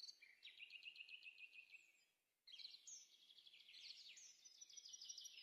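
Songbird singing: two rapid, high trilled phrases with a short pause between them about two seconds in.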